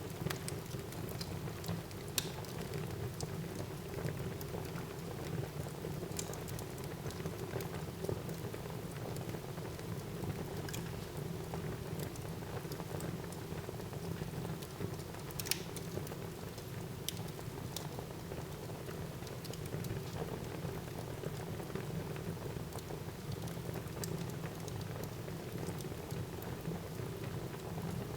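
Wood fire burning in a fireplace: a steady low rush of flames with scattered crackles and pops, the sharpest pop about fifteen seconds in.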